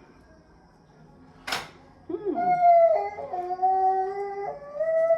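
A dog howling: long held tones that start with a slide and step between pitches. A short sharp sound comes just before the howl starts.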